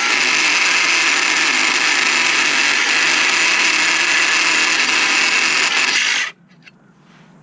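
A power tool running steadily, then stopping abruptly about six seconds in.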